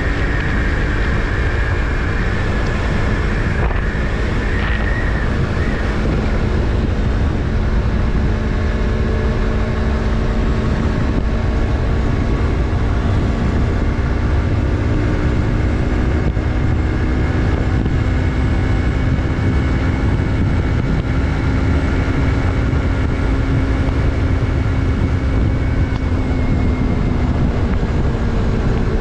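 Stock Yamaha MT-03's 321 cc parallel-twin engine running steadily at cruising speed, its pitch drifting only a little and easing down slightly near the end.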